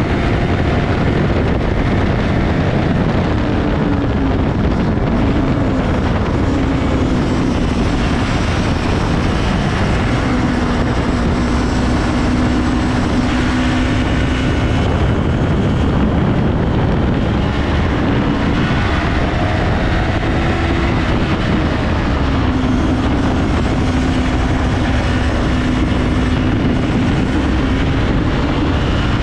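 Yamaha R3's parallel-twin engine at high revs on track, its pitch rising and falling repeatedly through gear changes and corners, under heavy wind rush on the onboard microphone.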